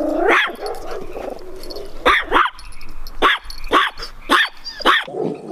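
A dog barking: a drawn-out pitched call at the start, then about six short, sharp barks in quick succession.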